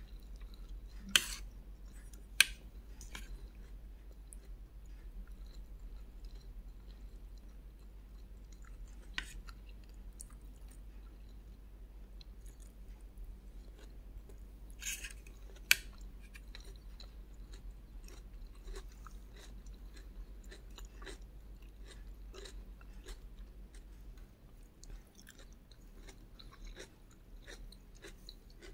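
Close-miked chewing of fried egg and rice, with wet mouth sounds and small clicks throughout. A few sharp, louder clicks stand out: two in the first few seconds and two near the middle.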